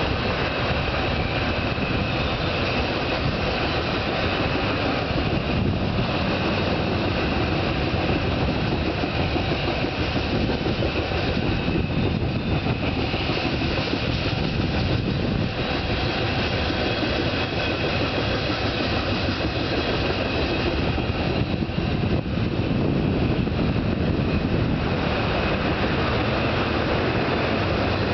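Coal hopper cars of a freight train rolling steadily over a railroad bridge: a continuous rumble and clatter of steel wheels on rail.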